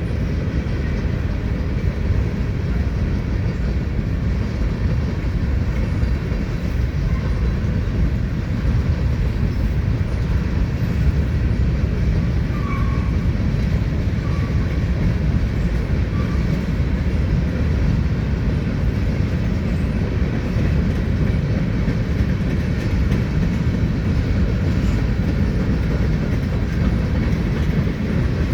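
Heavy Norfolk Southern freight train rolling past: a steady low rumble and clatter of wheels on rail, with a few faint short squeals about halfway through.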